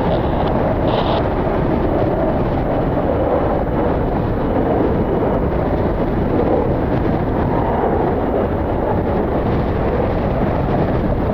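Strong gusty wind blowing across the microphone, a steady rushing noise.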